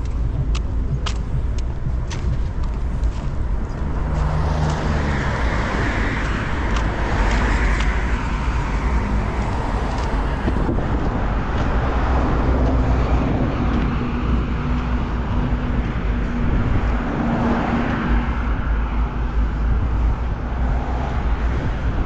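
Street traffic: cars passing on a city road, their tyre and engine noise swelling and fading over a constant low rumble.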